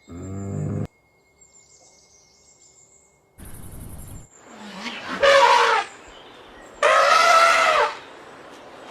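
Animal calls: a short, deep call at the start, a brief rasping burst, then two loud, long pitched cries about two seconds apart, each arching up and down in pitch.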